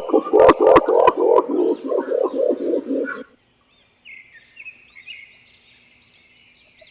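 Green imperial pigeon giving a fast run of deep cooing notes, a rapid hu-hu-hu, with a few sharp clicks; the run cuts off abruptly about three seconds in. Faint high chirps of small birds follow near the end.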